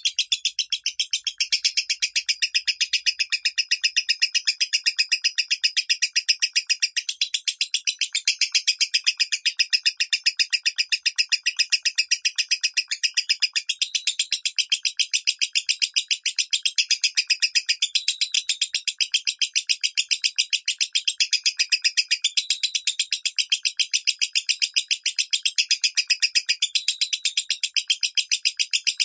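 Lovebird singing in the 'minor' style: a fast, unbroken chatter of high notes, repeated many times a second without a pause.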